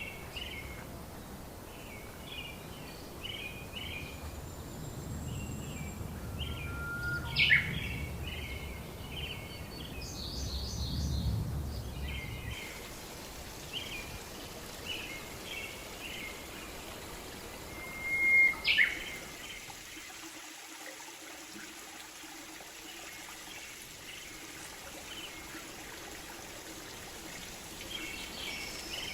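Birds chirping in short, repeated calls, over a soft background hiss. There are two sharp, louder clicks, one about seven seconds in and one about eighteen seconds in, and a low rumble during the first half.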